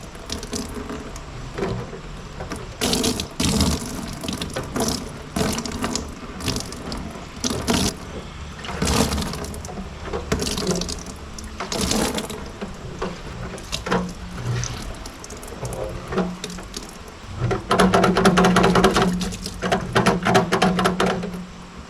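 Dirty, rusty cleaning solution pouring out of a motorcycle's metal gas tank in irregular gushes and splashing into a bucket, with a louder, steadier pour near the end. The flow comes out unevenly because a lip inside the tank holds the liquid back.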